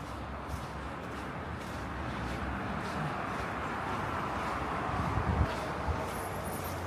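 Road noise swelling and fading as a car passes on a snow-covered street, loudest about two thirds of the way in. Footsteps crunch in snow at a steady walking pace throughout.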